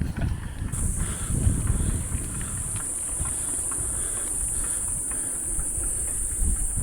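A steady, high-pitched insect buzz starts about a second in and holds throughout, over a low rumble of wind and riding noise.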